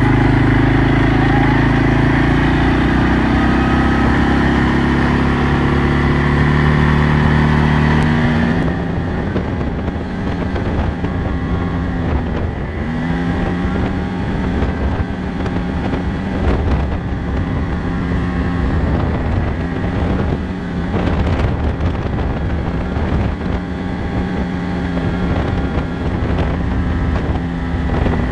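CFMOTO CForce 500 ATV's single-cylinder engine running under way. About eight seconds in its note drops suddenly, and it runs on at a lower, wavering pitch.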